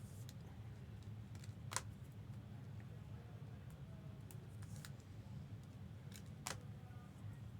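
Trading cards being handled and slid into plastic sleeves: scattered light clicks and taps, two sharper clicks about two seconds in and near the end, over a low steady hum.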